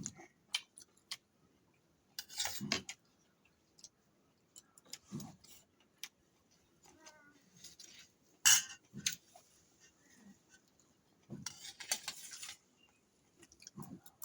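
Cutlery clinking and scraping against a plate while eating, in short separate strokes a second or two apart, the sharpest about eight and a half seconds in.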